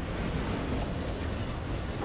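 Railway flatcars of a maintenance train rolling past: a steady rumble of steel wheels on the rails.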